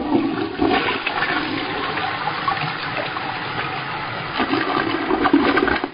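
Rushing water, a steady noisy gush that starts abruptly, swells near the end and cuts off suddenly.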